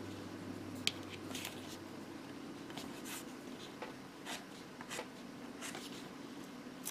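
Light scratching, rustling and small clicks of masking tape being handled and pressed onto plastic model kit parts, scattered irregularly over a faint steady hum.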